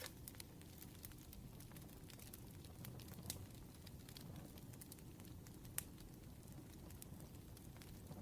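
Wood fire crackling softly: sparse sharp pops and snaps over a low steady rumble, with the loudest pops about three and six seconds in.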